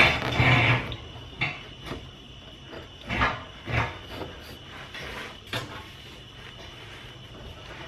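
A few clunks and knocks from the old exhaust system being worked loose from its rubber hangers underneath the car. A loud scraping clatter comes right at the start, then single knocks spaced a second or two apart.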